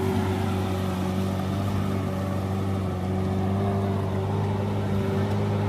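Isuzu Trooper's engine running at a steady speed with an even, unchanging note.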